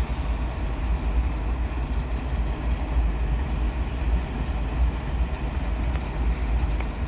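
Norfolk Southern freight train rolling past, its cars making a steady low rumble.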